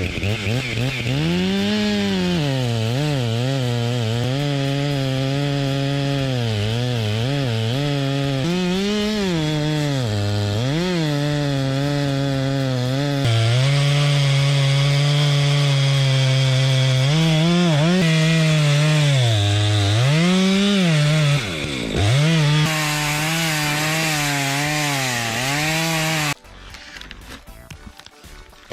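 Chainsaw cutting into wood, its engine pitch sagging as the chain loads up in the cut and climbing back as the load eases, again and again. Near the end it cuts off into a much quieter stretch.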